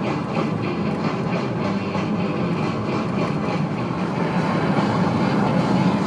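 Steady engine and tyre noise inside a car's cabin while it drives along at road speed.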